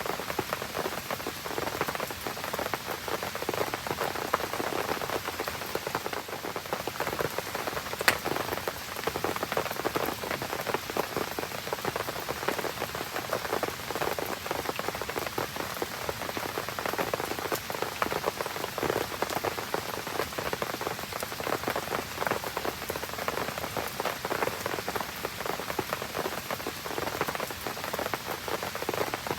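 Steady rain pattering on surfaces around a campfire, the fire crackling among the drops, with one sharp snap about eight seconds in.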